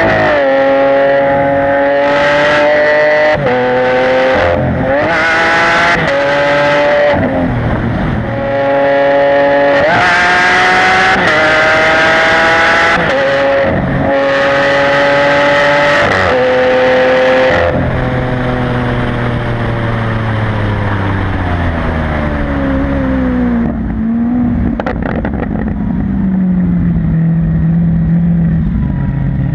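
Lamborghini Aventador LP700-4's V12 with a factory racing exhaust accelerating hard through the gears, the pitch climbing and breaking off at each upshift. In the second half it lifts off and the note falls and settles lower, with a few sharp cracks.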